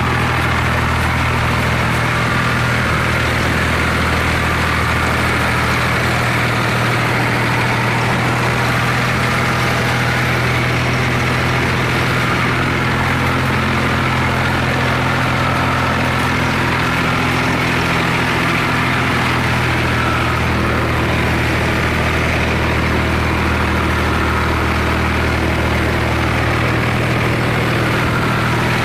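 Swaraj 735 tractor's diesel engine idling steadily.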